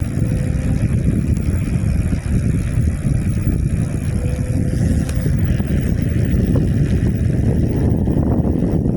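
Wind buffeting the microphone of a riding e-bike, a loud, unsteady low rumble, with a faint thin steady whine through the first half.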